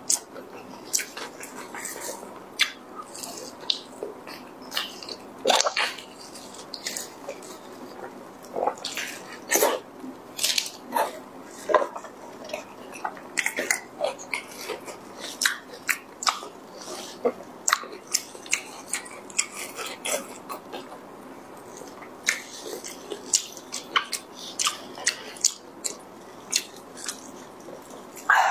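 Close-up wet chewing and lip-smacking of braised pork skin and fat, with many irregular soft smacks and clicks.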